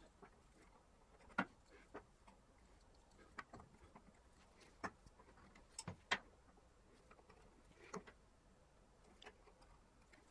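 Light, irregular clicks and taps, about a dozen of them spaced unevenly, in an otherwise quiet room.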